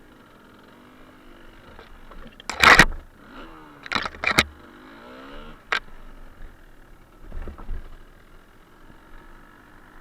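Suzuki TS125R's two-stroke single-cylinder engine running at low revs, its pitch rising and falling a few times in the middle. Several loud, sharp knocks break over it, the loudest nearly three seconds in.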